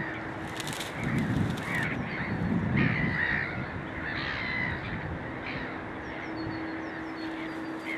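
Birds calling outdoors: a series of short harsh calls, over a low rumble of wind.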